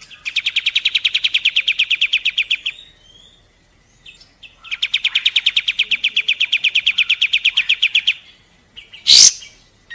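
Kapas tembak (white-shouldered triller) singing its fast, evenly pulsed trill of about a dozen sharp notes a second. Two long trills come with a short pause between them, then a single sharp call near the end.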